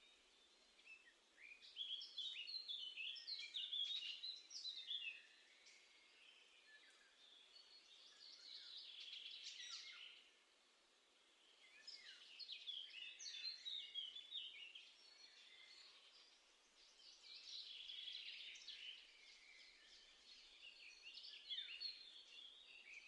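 A songbird singing short phrases of quick, varied notes, repeated about every five seconds over a faint background hiss.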